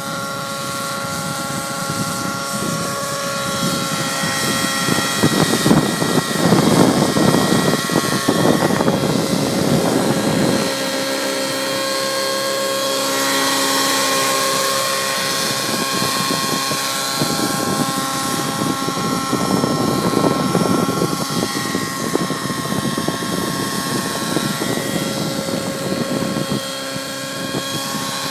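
T-REX 700 Nitro radio-controlled helicopter flying, its nitro engine and rotors giving a steady whine. Twice, for several seconds each, wind rushes across the microphone over it.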